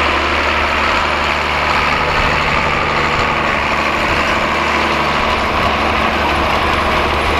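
John Deere 4450 tractor's six-cylinder turbo diesel running steadily.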